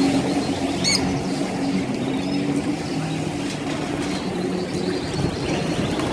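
A motor vehicle engine running steadily, with small birds chirping a few times, most clearly about a second in.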